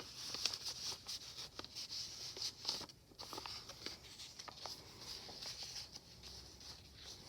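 Paper pages and a paper envelope of a handmade journal being handled, giving soft, irregular rustles and crinkles.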